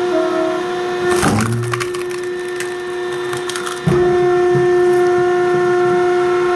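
A firewood-cutting machine runs with a steady mechanical hum. About a second in, a log cracks and splinters under it. Near four seconds there is a sharp knock, and the hum settles louder.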